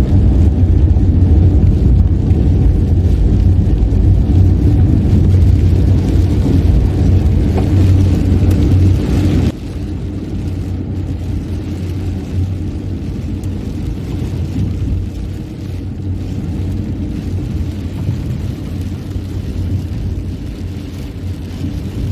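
Steady low rumble of a car driving, heard inside the cabin: road and engine noise. It drops suddenly to a quieter level about nine and a half seconds in and carries on steadily.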